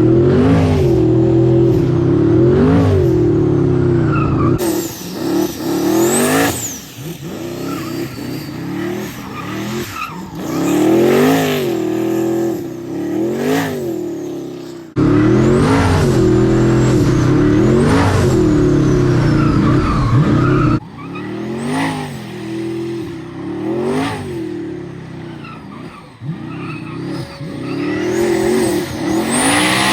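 Race car V8 engine revving hard over and over, its pitch climbing and dropping with each blip, with tyre squeal from burnouts. The level jumps abruptly a few times.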